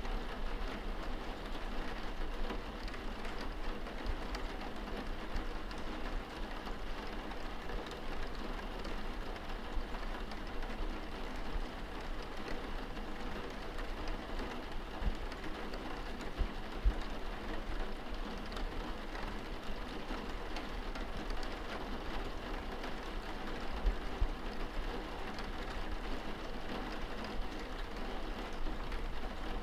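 Steady rain falling against a window, heard from indoors, with a constant low rumble underneath and a few soft low thumps now and then.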